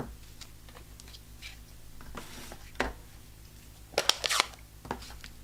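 Paper and stamping tools being handled at a craft desk: scattered light taps, a short rustle about two seconds in, and a quick cluster of sharp clicks about four seconds in.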